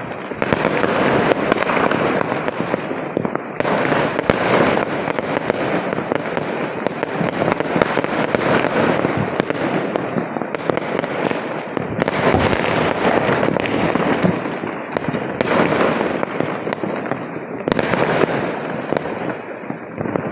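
Diwali fireworks and firecrackers going off without a break: a dense, continuous crackle of many bangs close together, with louder clusters of bangs every few seconds.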